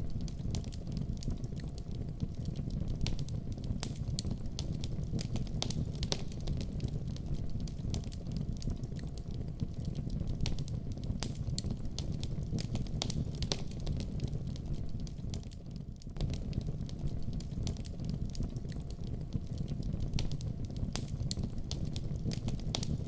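Wood fire burning in a fireplace with a steady low rumble, scattered sharp crackles and pops throughout, and a brief lull about two thirds of the way in.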